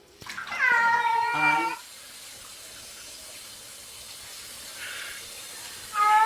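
A pet cat making odd, drawn-out calls: one lasting about a second and a half near the start, and another beginning near the end. A steady hiss runs between the calls.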